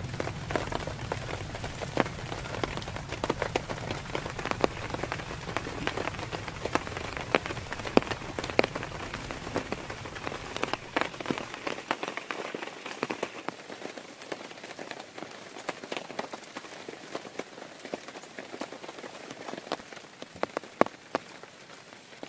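Heavy rain falling, with many sharp drips and drop impacts spattering close by. A low rumble underneath dies away about halfway through.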